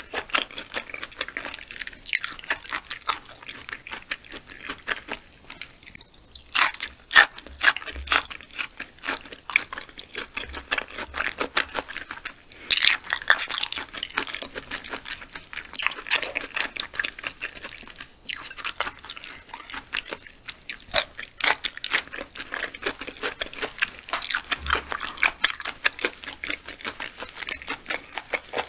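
Close-miked chewing of raw yellowtail (Japanese amberjack) sashimi: wet mouth sounds with an irregular stream of sharp smacks and clicks.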